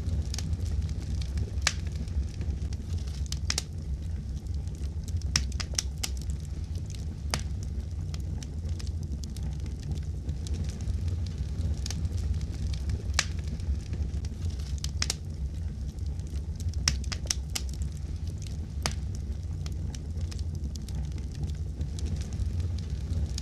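Wood fire crackling: a steady low rumble of flames with sharp pops and snaps at irregular intervals.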